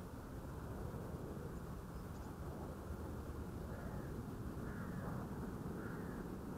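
Steady low rushing background noise, with a distant bird calling faintly three times, about four, five and six seconds in.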